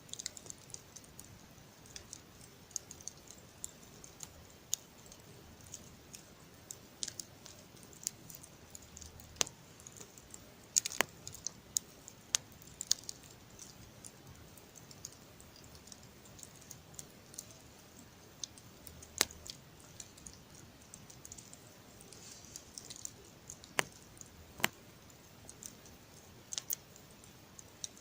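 Campfire crackling: irregular sharp pops and snaps over a faint hiss, with a few louder snaps scattered through.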